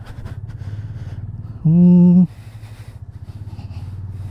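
Motorcycle engine running steadily as the bike rides off, push-started on a flat battery. About halfway through a loud held tone of even pitch sounds for about half a second.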